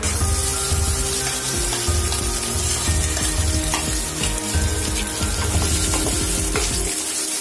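Boiled potato cubes dropped into hot ghee with cumin in a kadhai, setting off a sudden loud sizzle that keeps going as they fry. A wooden spatula stirs them near the end.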